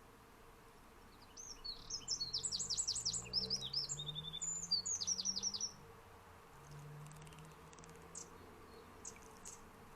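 A songbird singing one burst of fast, high twittering and trilling notes, starting about a second and a half in and lasting about four seconds.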